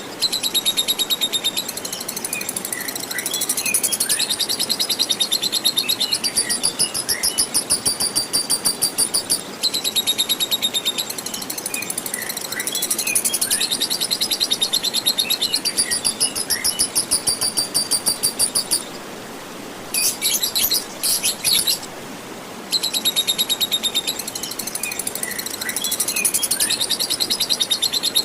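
Lovebird's long ngekek: very fast, high-pitched chattering trill held in long unbroken runs. It breaks into short choppy bursts about two-thirds of the way through, over a steady hiss of flowing water.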